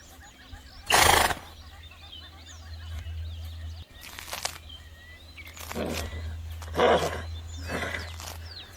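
Horses making short breathy, unpitched sounds: one loud burst about a second in, then four shorter ones in the second half, over a steady low hum.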